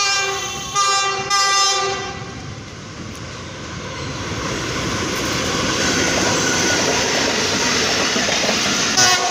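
Pakistan Railways GEU40 diesel-electric locomotive sounding its horn in several blasts over the first two seconds as it approaches. Then comes the rising, steady noise of the passenger train's coaches passing close by, with a short horn toot near the end.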